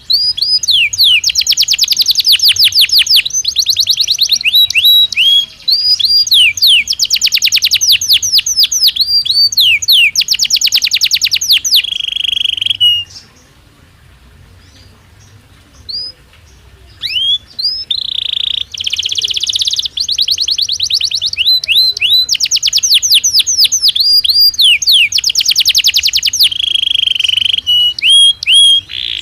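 Belgian canary singing a long song of fast rapid-fire trills, rising sweeping notes and steady held tones. The song breaks off for a few seconds about halfway through, then starts again.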